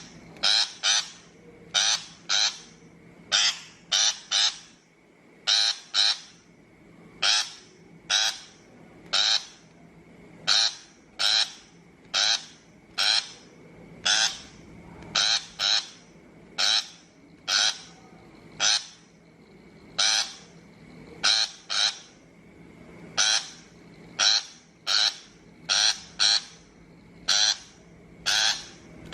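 Shrike giving harsh, rasping calls over and over, singly and in quick runs of two or three, roughly one to two a second.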